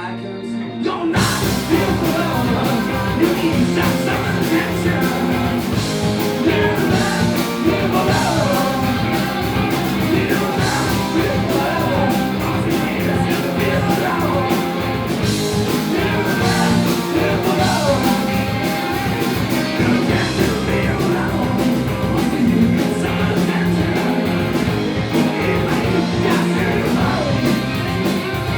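Live rock band playing with a lead vocal. About a second in, the full band with drums comes in over sustained held notes.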